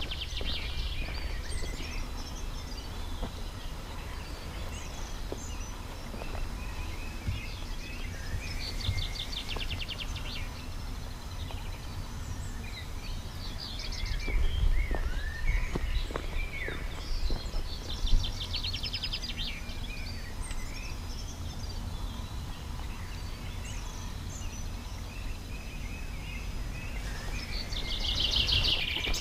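Songbirds singing outdoors: a rapid trill recurs every eight seconds or so among scattered chirps and calls, over a steady low rumble.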